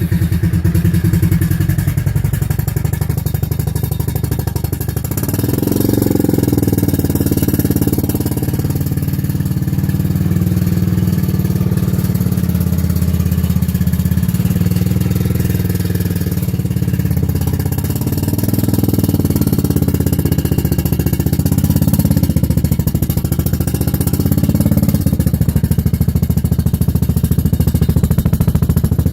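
Honda TRX300FW ATV's air-cooled single-cylinder four-stroke engine running at idle just after starting, with a rattle like something loose, which the owner thinks is coming from the exhaust rather than the engine.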